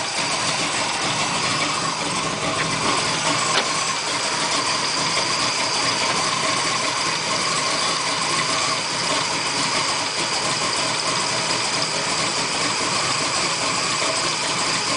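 Chevrolet 396 cubic-inch big-block V8 with a Holley carburettor and a lumpy Comp camshaft, idling steadily, still cold, through cast-iron exhaust manifolds rather than headers.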